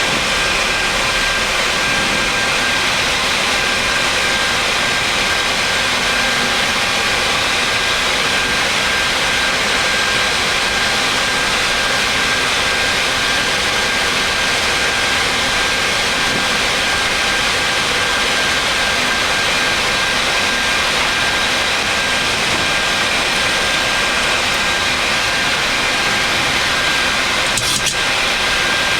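Steady rush of airflow and engine noise inside a Boeing 737 MAX flight deck on approach, with a faint steady whine above it.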